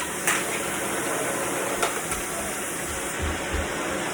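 Vacuum cleaner running steadily, with a couple of light clicks about a third of a second and nearly two seconds in.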